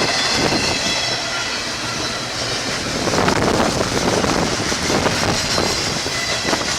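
A train rolling past on the main line, its wheels running over the rails in a steady rumble, with a swell about three seconds in.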